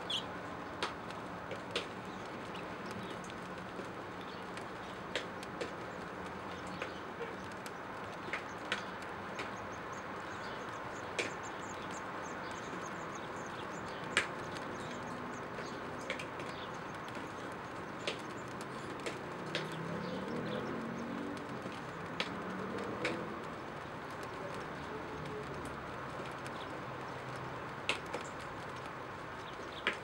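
Birds at a nest with nestlings: a steady soft background, scattered short sharp ticks, and a low wavering call lasting a few seconds about two-thirds of the way through.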